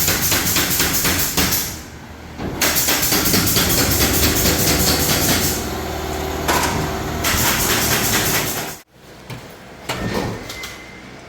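Power tool running with a fast, even chatter in loud runs, with short breaks, then cutting off suddenly about nine seconds in; a few knocks follow.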